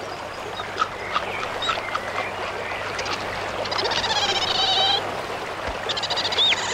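Common ravens calling: a few harsh, croaking calls in the second half, over scattered small clicks and a steady background wash.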